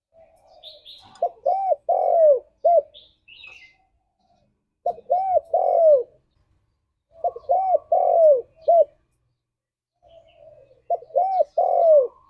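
Spotted dove cooing: four phrases of several arched coos, one about every three seconds, each opened by a soft low note. A few faint high chirps from other small birds between the phrases.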